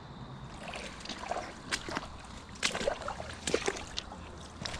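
Creek water sloshing and splashing around someone wading against the current, with a few irregular sharp splashes over a steady low rush.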